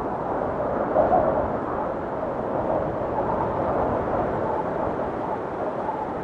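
Blizzard wind blowing steadily, with faint wavering whistles in it and a gust swelling about a second in.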